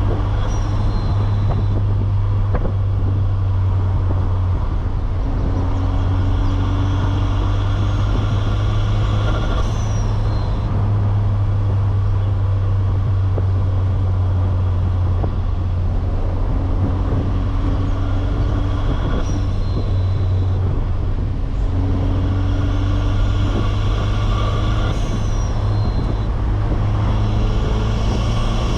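2007 Saturn Sky Redline's turbocharged 2.0-litre four-cylinder running on the road at low, fairly steady revs, a deep drone that steps in pitch a few times. A faint high turbo whistle rises twice and cuts off, once about a third of the way in and once near the end.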